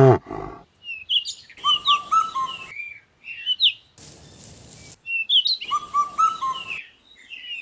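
Small birds chirping and twittering in two bursts of quick, high chirps, with a brief hiss in between.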